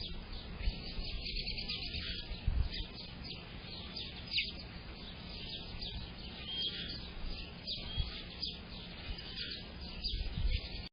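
Several small songbirds chirping and singing, a steady run of short high chirps and brief whistled notes, over a low rumble.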